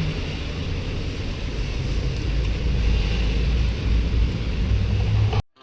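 Steady rushing noise of heavy rain around a car, over the low rumble of the car running; it cuts off abruptly near the end.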